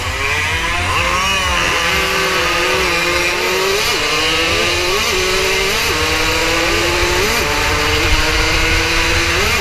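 80cc racing motorcycle engine heard from on board, accelerating hard. Its pitch climbs and breaks sharply at several gear changes. Heavy wind buffeting on the microphone underneath.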